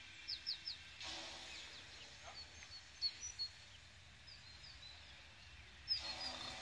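Birds calling: short, high, downward chirps in a few small clusters, loudest near the start, about three seconds in and near the end. Under them is a faint steady hum that starts about a second in and stops near the end.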